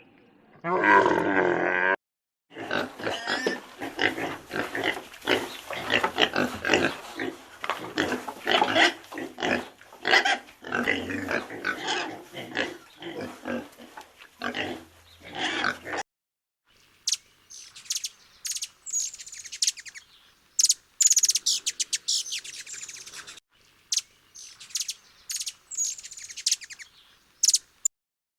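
Animal calls in separate bursts: a long run of rapid, gruff pulsed calls, then after a short break a series of sharp, high chirps.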